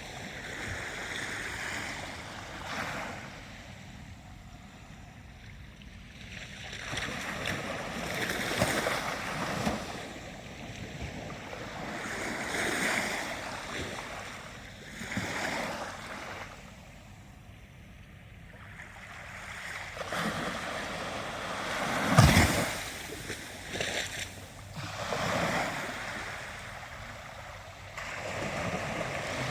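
Ocean surf: waves washing in and draining back in irregular swells every few seconds. About three-quarters of the way through, one sharp, loud crash stands out as the loudest moment.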